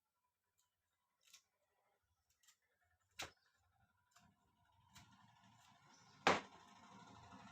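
Scattered light clicks and taps in a small room, the loudest a sharp click about six seconds in, with low rumbling noise like something being handled or moved building through the second half.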